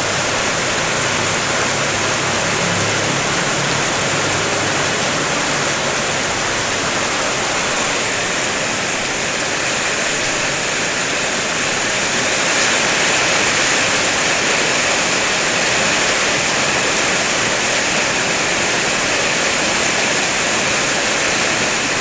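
Heavy rain drumming steadily on a car's roof and windows, heard from inside the car as a dense, even hiss.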